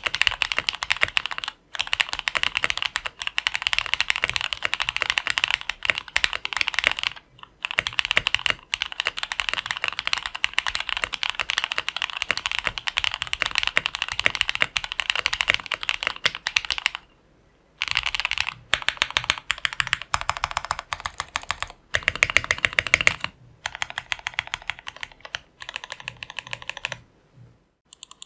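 Fast typing on an FL CMMK MK870 mechanical keyboard built plateless with Jwick Black linear switches: a rapid, continuous stream of keystrokes with a few brief pauses, breaking into shorter bursts near the end.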